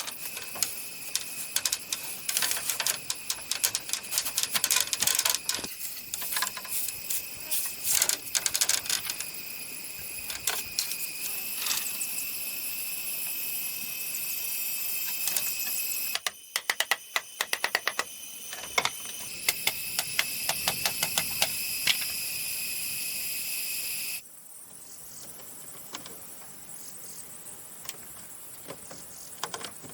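Hand-tool work on bamboo: quick runs of sharp knocks and clicks, over a steady high-pitched hum that changes abruptly a few times.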